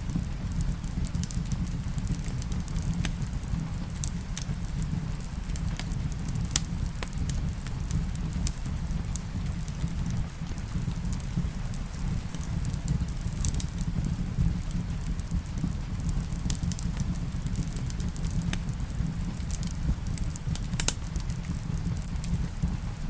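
Wood fire in a fireplace crackling, with sharp pops every second or so, over a steady low rumble and the hiss of rain.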